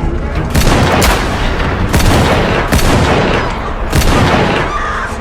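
Battle sound effects of First World War trench fighting: a dense, continuous din of gunfire with sharp shots and booms standing out about half a second, one, two, nearly three and four seconds in.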